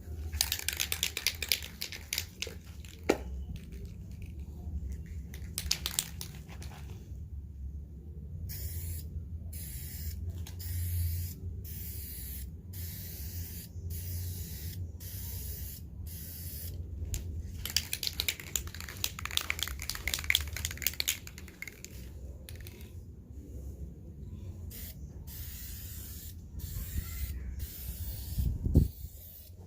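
Aerosol can of VHT tint spraying onto a tail light lens. Longer continuous sprays alternate with runs of short bursts about one a second, over a steady low hum. There is a single low knock near the end.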